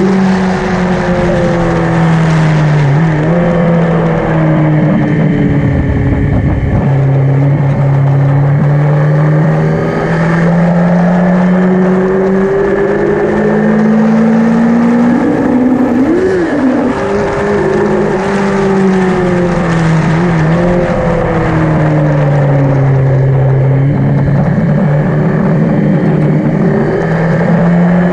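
The air-cooled inline-four engine of a 1986 Yamaha XJ900N motorcycle running hard and continuously. Its pitch falls and rises several times as the revs change, with a brief sharp jump in pitch about sixteen seconds in.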